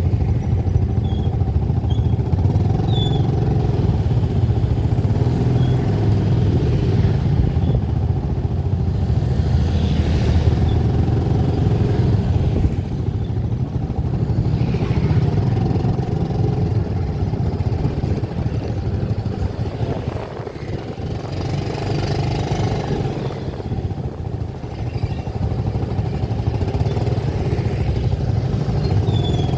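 A vehicle engine running steadily on the move; it eases off briefly about two-thirds of the way through.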